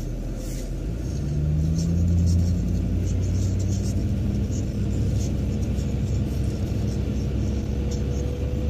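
Car engine and road noise heard from inside the cabin. The car pulls away from a standstill about a second in, the engine getting louder and rising in pitch as it accelerates, then running steadily in moving traffic.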